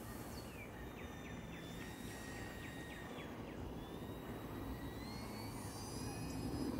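Faint whine of the E-flite Eratix foam RC plane's electric motor and propeller in flight, rising and falling in pitch as the throttle and the plane's distance change, and growing slightly louder near the end.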